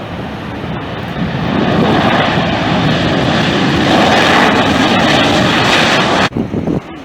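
A jet airliner's engines rushing as it passes close by, growing louder over the first few seconds and then cutting off suddenly about six seconds in.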